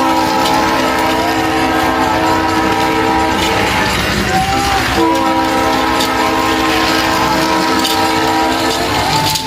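Train horn sounding two long chord blasts, the second starting about five seconds in, over a steady rolling rattle of train wheels.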